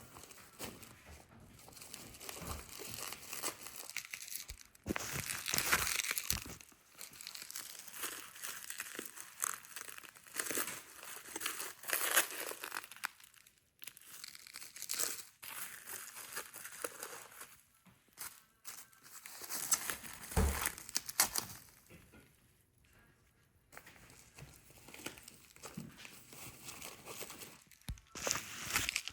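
Perfume packaging being unwrapped and handled: crinkling and tearing in irregular spells, with a couple of short lulls.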